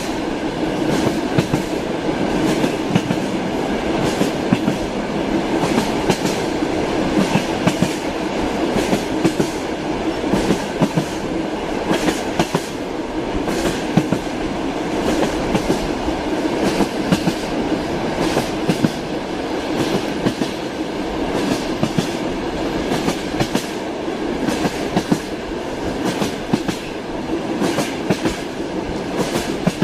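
Train running along the track: a steady rumble with a continuous stream of clacking wheels over the rails.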